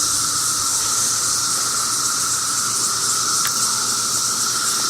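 Dense chorus of 17-year periodical cicadas: a loud, steady drone with a high hiss above it.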